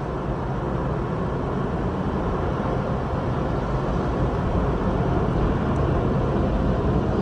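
Automatic car wash machinery heard from inside the car: a steady rushing noise over a low hum, slowly growing louder.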